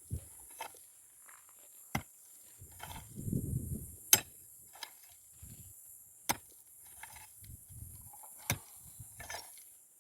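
Sharp knocks of a hard tool striking, one about every two seconds, with fainter scraping in between and a short low rumble about three seconds in.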